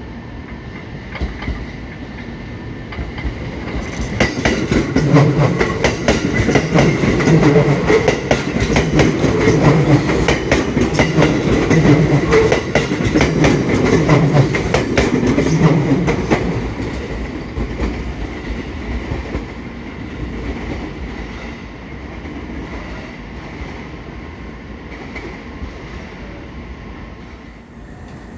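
A train running past on the rails, its wheels clicking over the rail joints. It builds up about four seconds in, is loudest for about twelve seconds, then fades away. A faint steady high whine runs underneath.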